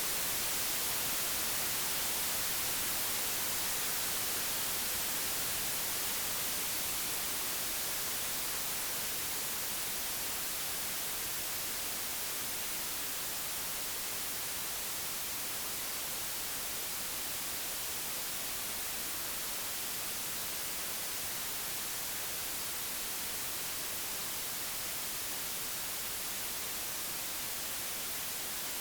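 Computer-generated white noise: a steady, even hiss with no tones or events, growing slightly quieter over the first several seconds.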